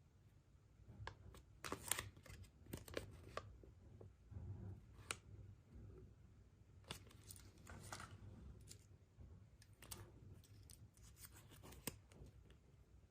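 Faint crinkling, tearing and clicking of a surprise egg's wrapper and plastic being handled, a scattering of sharp, irregular crackles.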